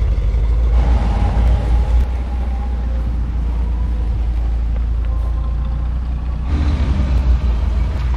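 Hot rod engines rumbling as the cars drive past, swelling louder about a second in and again near the end.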